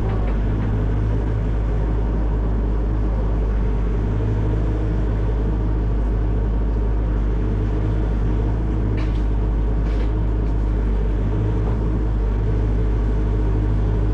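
Excavator's diesel engine and hydraulics running steadily under load while a tree shear works, with a couple of faint sharp cracks about nine and ten seconds in.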